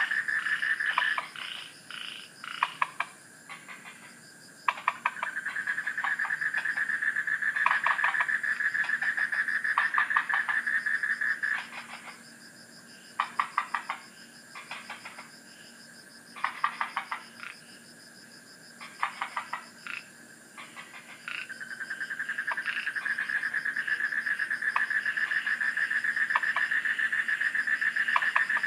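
Frogs calling: a fast, pulsing trill that runs in long bouts, breaking off about a second in and again for a long stretch in the middle, with short rattling call bursts filling the gaps.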